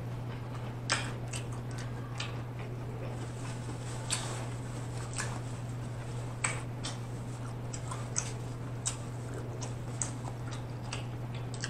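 Close-up chewing: wet mouth clicks and smacks at irregular intervals, a dozen or so, over a steady low electrical hum.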